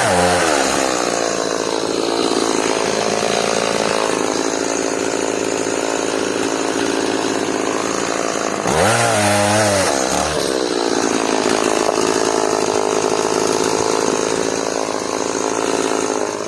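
Stihl MS180 two-stroke chainsaw running at high revs through hard elm, its engine note held steady under the cut. About nine seconds in the revs drop sharply and climb back, and they fall again near the end.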